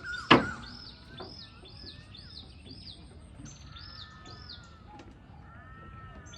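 Birds calling: a steady run of short, high, arched chirps, two to three a second, with a few lower whistled notes later. A single sharp, loud knock comes about a third of a second in.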